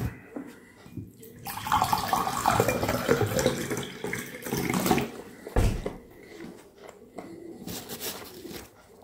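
Close-up wet chewing of soft boiled carrots, moist smacking mouth sounds, loudest in the middle, with a short knock a little after halfway.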